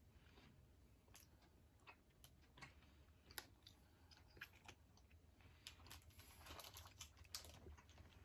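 Faint chewing of a chewy caramel candy, with scattered small mouth clicks and smacks over near silence.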